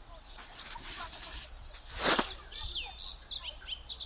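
Small birds chirping and whistling, with a brief louder rushing noise about two seconds in.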